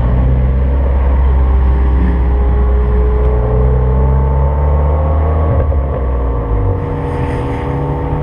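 Car engine running at a low, steady speed, its pitch drifting slightly upward, with a brief hiss about seven seconds in.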